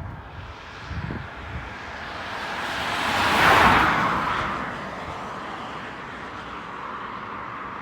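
Jet airliner passing close by, swelling to a peak about three and a half seconds in and then fading with a falling pitch. Wind buffets the microphone throughout.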